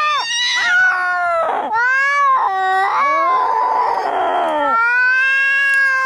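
Angry cats caterwauling in a fight: wavering yowls that glide up and down in pitch and break off into shorter cries, a harsh hiss about three and a half seconds in, then a long, held yowl.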